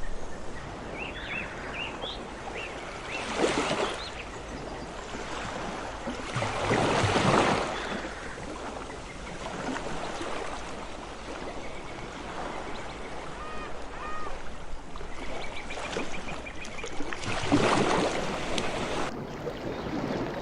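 Ocean waves washing ashore, three swells rising and falling over a steady background wash, with a few faint high chirps.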